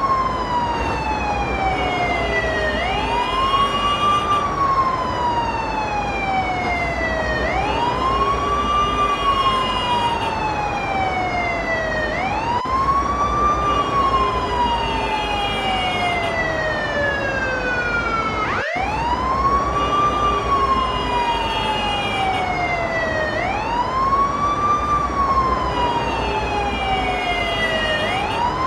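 Ambulance siren in a wail pattern: each cycle rises quickly in about a second, then falls slowly over three or four seconds, repeating about every four to five seconds. A brief dropout about two-thirds of the way through.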